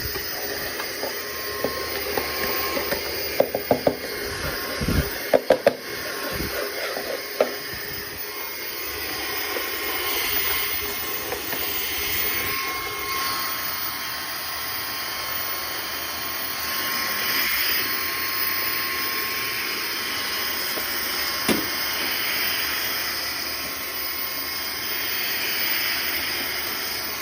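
Vacuum cleaner running with a steady hiss and a faint whine. A cluster of sharp clicks and knocks comes a few seconds in, and one more knock past the middle.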